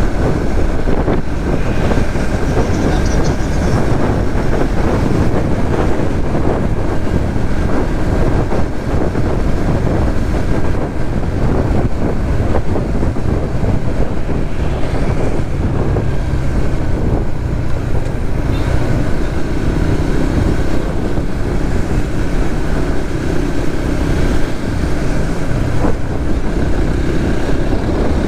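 Suzuki GSX-S150 single-cylinder motorcycle running steadily under way in traffic, its engine mixed with loud, even road and wind noise.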